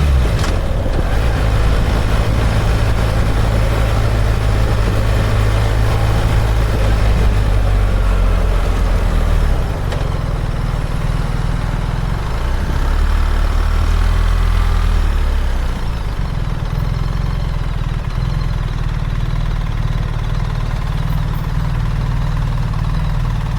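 BMW R1300 GS's boxer-twin engine running on the move, over steady wind rush. The engine note shifts several times, about ten, thirteen and sixteen seconds in, as the revs change.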